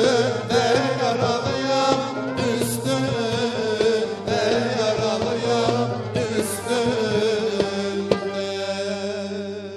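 Turkish fasıl ensemble playing Middle Eastern music: sustained, wavering melody lines over regular hand-drum strikes, fading out near the end.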